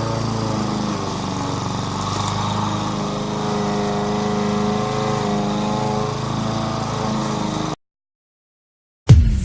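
Small engine of a grass-cutting machine running steadily, then cut off abruptly into about a second of dead silence. Near the end music starts with a loud hit.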